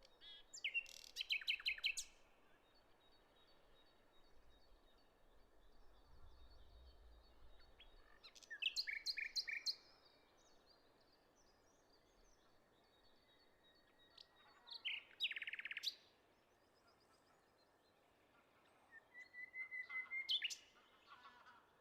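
Songbird singing: four short phrases of quick repeated high notes, each lasting one to two seconds, spaced several seconds apart.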